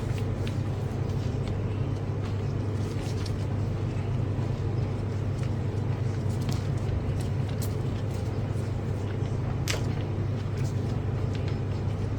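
A steady low machine hum, with scattered small clicks and taps over it and one sharper click about ten seconds in.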